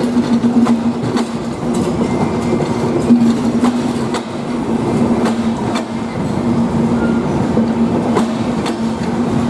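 Chilahati Express passenger train running on the track, its wheels clicking over rail joints again and again above a steady low drone.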